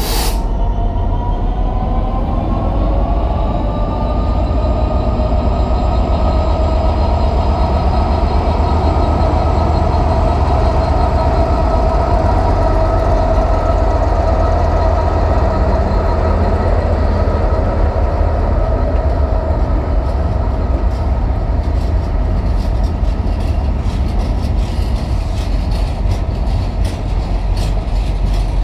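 Class 66 and Class 60 diesel locomotives passing at the head of a freight train. The engine note rises over the first few seconds, then holds steady. After about 20 seconds the engine sound fades and the wagon wheels click over the rail joints.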